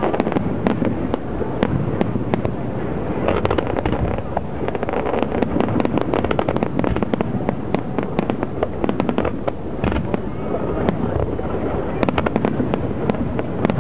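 Fireworks crackling and popping: a dense, continuous run of sharp reports from many shells and crackle effects going off together, growing thicker about three seconds in, again from about five to nine seconds in, and near the end.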